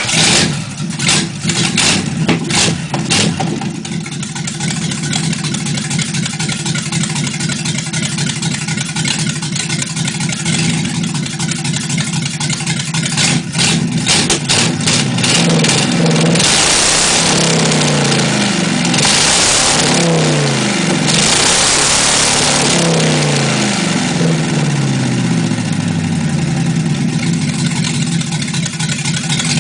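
Chrysler 318 small-block V8 with swapped-on J heads, running just after being fired up: sharp popping in the first few seconds, then a steady idle. Around the middle it is revved several times, each blip falling back to idle.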